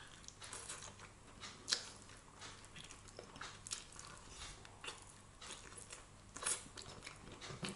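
A person chewing and biting air-fried food close to the microphone: irregular short crunches and mouth clicks, a sharper one about two seconds in and another near the end.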